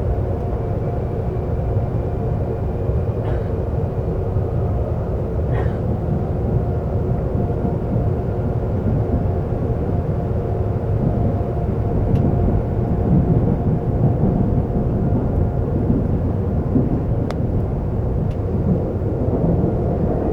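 Seoul subway train running: a steady low rumble with a constant hum and a few sharp clicks.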